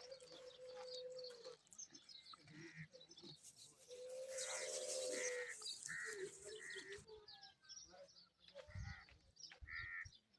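Birds chirping repeatedly and faintly, with two longer, steady lower-pitched calls among the chirps.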